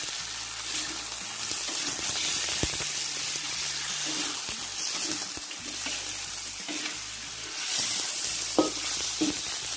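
Raw chicken pieces sizzling in hot oil in a wok, with a steady hiss, while a metal spatula stirs and turns them, scraping and knocking against the pan.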